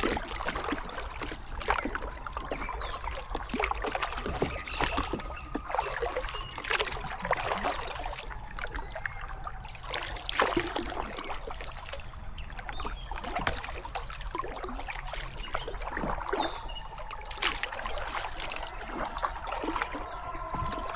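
Kayak paddle strokes dipping and pulling through river water, with irregular splashes and drips off the blades. A steady pitched drone comes in near the end.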